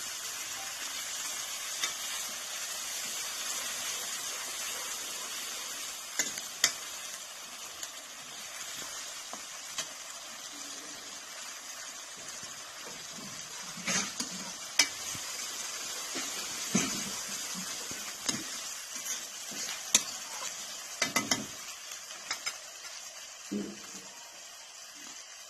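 Onion-garlic-ginger masala with freshly added tomato sizzling in hot oil in a wok over a wood fire, a steady hiss, with a spoon clinking and scraping against the pan now and then as it is stirred.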